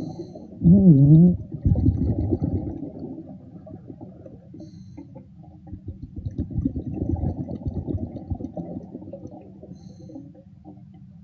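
Muffled underwater sound of bubbling and water movement, with a short muffled voice-like hum about a second in.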